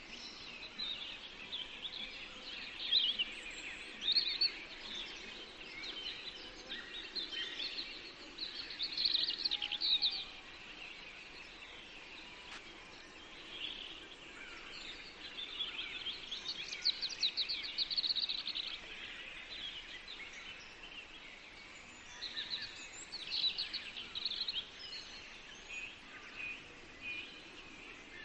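Several songbirds singing together: overlapping chirps and short phrases, with quick rapid trills about nine and seventeen seconds in, over a faint steady background hum.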